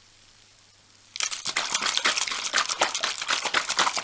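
Plastic zip-lock MRE beverage bag of water and grape electrolyte powder being shaken hard to mix the drink. The plastic crinkles and the liquid sloshes in fast, repeated strokes that start suddenly about a second in, after a short quiet spell.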